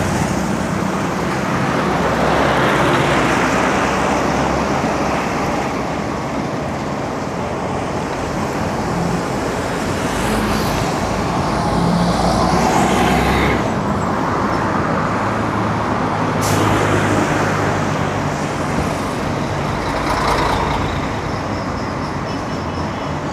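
Road traffic: motor vehicles passing one after another, their engine and tyre noise swelling and fading every few seconds. There is a single sharp click about sixteen seconds in.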